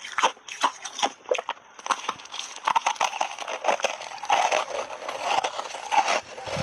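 Ice chunks coated in matcha powder being bitten and chewed: a few separate sharp crunches in the first two seconds, then a denser, nearly continuous run of crunching as the pieces are chewed.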